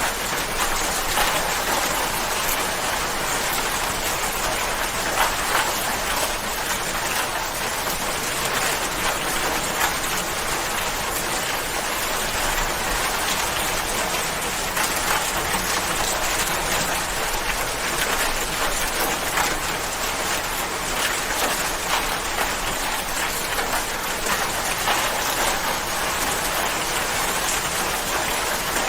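Steady rain falling, a continuous hiss of dense drops pattering on surfaces.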